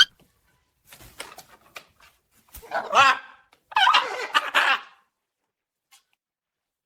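A few soft clicks, then two loud animal calls with a wavering pitch, one about three seconds in and a longer one right after it.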